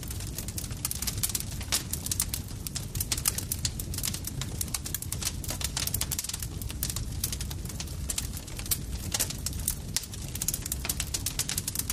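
Campfire crackling: dense, irregular sharp pops and snaps of burning wood over a low, steady rumble.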